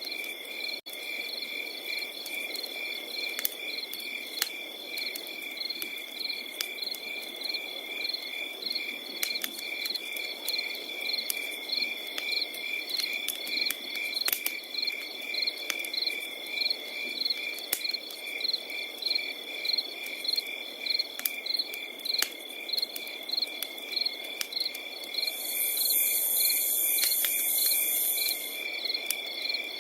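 Crickets chirping in a steady, even rhythm, with one continuous trill underneath. A wood fire crackles with scattered sharp pops. Near the end a higher buzzing insect call joins in for about three seconds.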